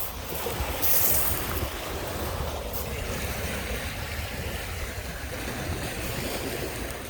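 Lake Michigan waves washing onto the beach, with wind buffeting the microphone as a low rumble. A brighter splash comes about a second in.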